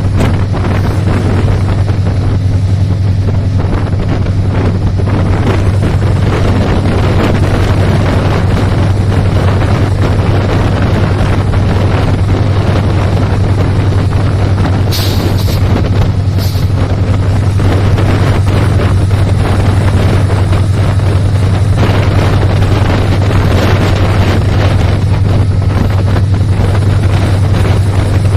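Moving train running steadily with a constant low hum under loud rumble, and wind buffeting the microphone. Two brief high-pitched squeaks come about halfway through.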